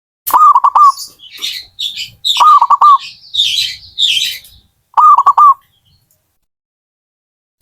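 Zebra dove (perkutut) cooing: three short phrases of quick, bubbling coos, each a run of four or five notes, with higher chirping between the first two phrases. The last phrase comes about five seconds in, and then the sound stops.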